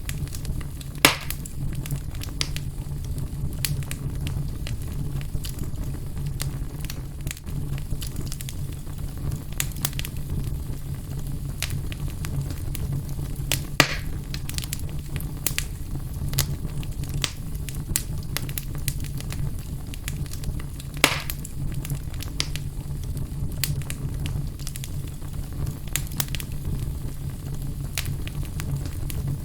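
Wood fire burning in a fireplace, crackling steadily over a low rumble, with a few sharper pops about a second in, around fourteen seconds and around twenty-one seconds.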